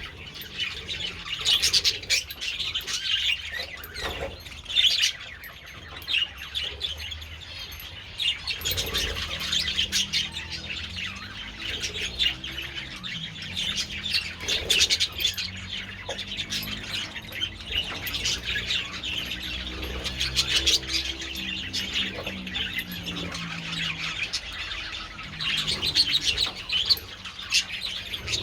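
A flock of budgerigars chattering and warbling continuously, a dense mix of many short chirps.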